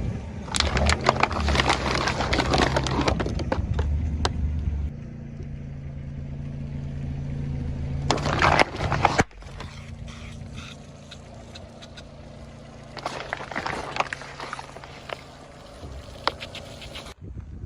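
Objects being crushed with dense crackling and cracking, in three bouts, over a steady low hum.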